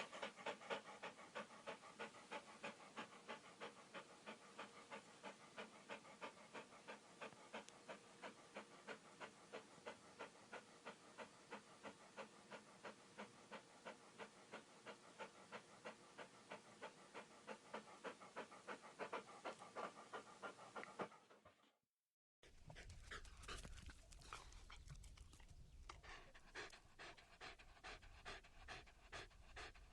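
A dog panting quickly in a steady rhythm, about three pants a second. The panting breaks off for about a second two-thirds of the way through, then starts again in a second recording with a low rumble underneath.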